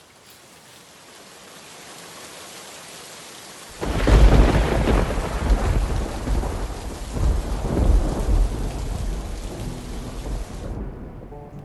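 Steady rain falling and growing louder, then a sudden clap of thunder about four seconds in that rolls on as a deep rumble, slowly dying away.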